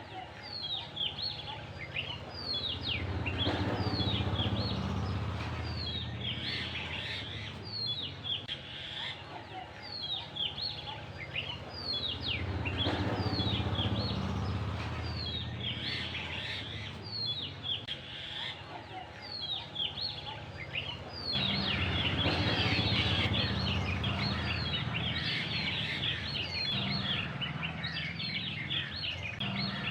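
Birds calling outdoors: a short call sliding downward in pitch, repeated about once a second, with more calls overlapping in the second half, over a steady low rumble.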